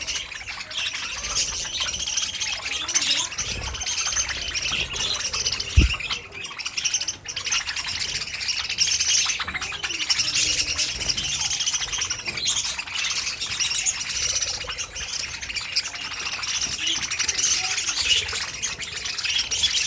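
Budgerigars chirping and warbling in continuous busy chatter, with one short low thump about six seconds in.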